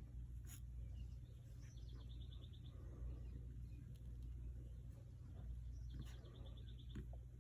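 A small bird sings a short, rapid, high trill twice, about four seconds apart, over a steady low hum.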